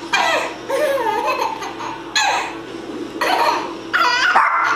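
A baby laughing in repeated short, high-pitched bursts.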